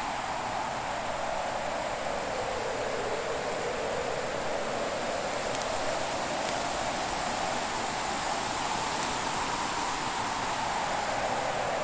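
Fireplace ambience: a steady rushing hiss whose pitch slowly sinks and rises again, with a few faint crackles from the fire.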